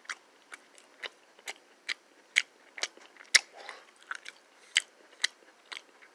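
Crunchy chewing of a Twix white chocolate cookie bar close to the microphone: the biscuit layer crunches sharply about twice a second.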